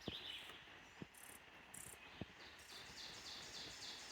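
Insects calling in high, rhythmic pulses, running at about four pulses a second in the second half, with a few faint knocks.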